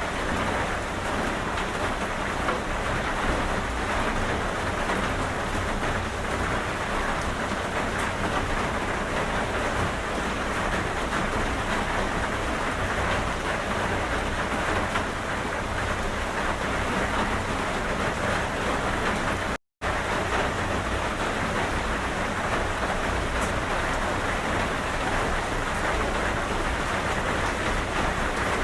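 Steady rain, a dense, even hiss of drops without letup. About two-thirds of the way through it cuts out to silence for a split second, then carries on.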